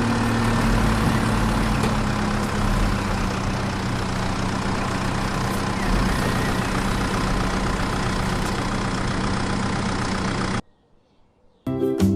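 Tractor engine idling steadily with a low hum that cuts off abruptly about ten and a half seconds in. After a moment of quiet, guitar music starts near the end.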